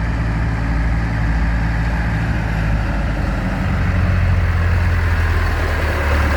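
Diesel farm tractor engine running as the tractor drives past at low speed, a steady low engine note that grows louder about four seconds in as it draws near.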